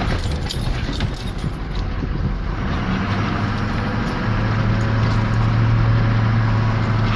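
Ford Power Stroke turbo-diesel pickup engine running as the truck drives slowly across a field. Its steady low hum firms up and grows a little louder about four seconds in.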